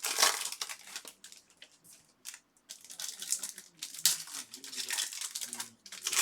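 Trading card pack wrappers and cards being handled: irregular bursts of plastic crinkling and rustling, with short pauses between them.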